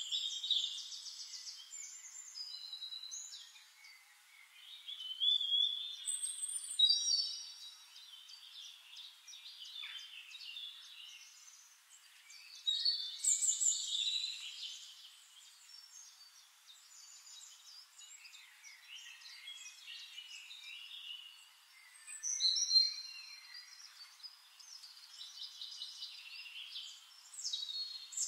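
Songbirds singing: varied chirps, whistles and quick trills, louder in bursts every few seconds.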